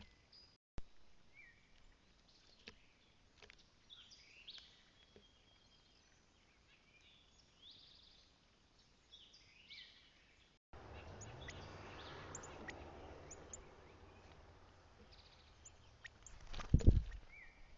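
Wild songbirds chirping and calling, short separate notes and phrases. In the second half a steady low rushing noise sits under the calls, and near the end comes one loud low thump.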